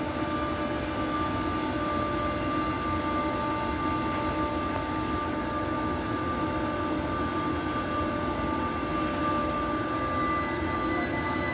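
Kaohsiung Metro train running: a steady rumble with several steady high-pitched tones, neither speeding up nor slowing down.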